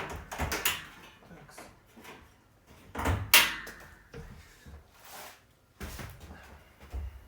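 Handling noises from working on a refrigerator: a string of irregular knocks, clunks and rustles, the loudest knock about three and a half seconds in.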